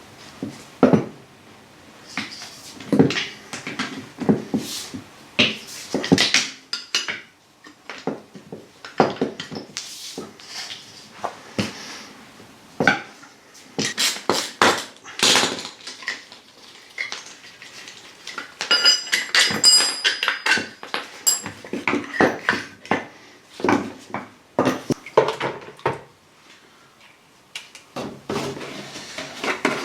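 Metal tools and steel suspension parts clanking and clinking as they are handled and worked on, a string of irregular knocks with a burst of metallic ringing about two-thirds of the way through.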